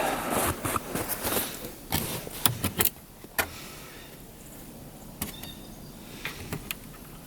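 A run of clicks, knocks and rustling handling noises, busiest in the first three seconds, then only a few scattered clicks.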